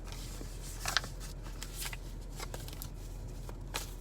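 Deck of cards shuffled and handled by hand: a run of short, irregular rustling strokes, the sharpest about a second in, over a faint steady hum.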